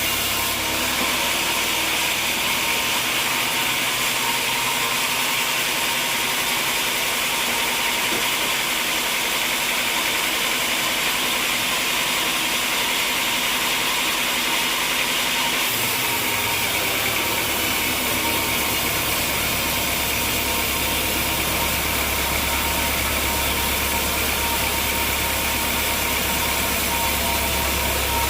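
Sawmill machinery running steadily: an engine-driven mill with a steady hiss and a constant thin whine. Its low rumble grows heavier about halfway through.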